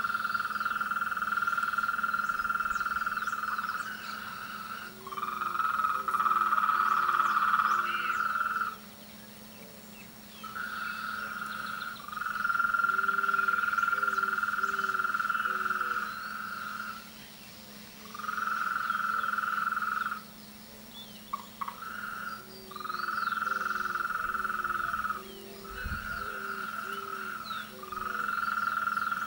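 Chorus of frogs calling in the mating season: long high trills lasting several seconds at a time, breaking off and starting again, with short low croaks in runs of three to five underneath.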